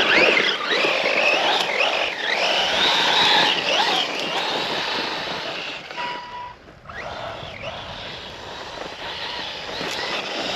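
Losi RC truck's brushless electric motor whining as it drives, the pitch rising and falling with the throttle over a steady rushing noise. The whine drops away briefly about six and a half seconds in, then picks up again.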